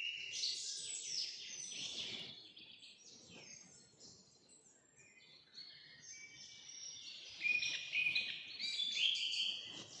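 Birdsong: birds chirping and twittering in quick, high notes. The chirping dies away for a few seconds in the middle and comes back busier from about seven seconds in.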